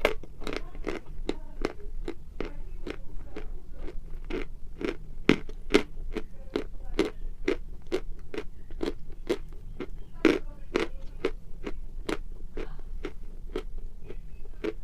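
Chalk being bitten and chewed close to the microphone: a quick run of dry crunches, about three a second, with a few louder bites in the middle.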